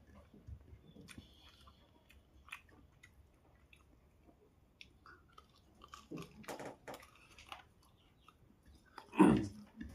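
A person chewing and biting food close to the microphone, with moist mouth clicks and a few louder crunchy bites, the loudest about nine seconds in.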